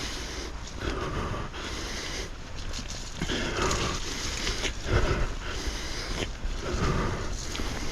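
A mountain-bike rider breathing hard, about one heavy breath a second, over a steady low rumble.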